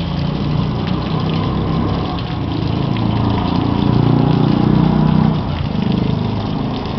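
Pumped water gushing steadily from an outlet pipe, with the pump running. The rushing swells louder between about three and five seconds in.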